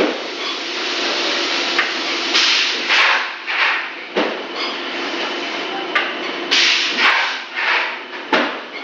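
Extruder machinery running: a steady hum under irregular surges of hiss and a few sharp clacks.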